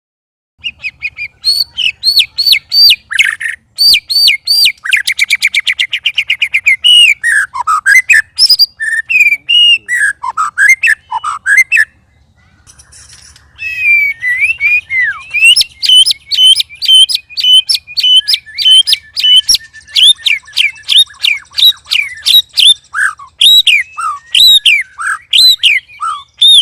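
White-rumped shama (murai batu) singing in full, continuous song: a loud, rapid stream of varied whistled notes, chatters and a fast trill. The song breaks off briefly about halfway through, then resumes.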